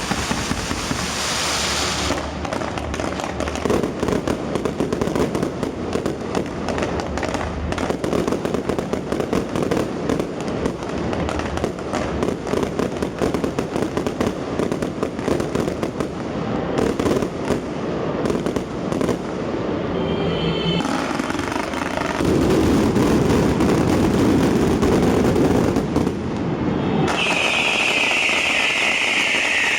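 Fireworks display going off: a dense, continuous crackle of rapid bangs and pops with no break. Near the end a steady hiss joins the crackle.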